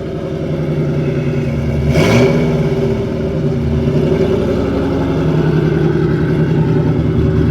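Cammed 1998 Mustang GT 4.6-litre V8 with a stage 2 Comp cam running steadily. About two seconds in there is a short, loud burst and a brief rise in engine pitch.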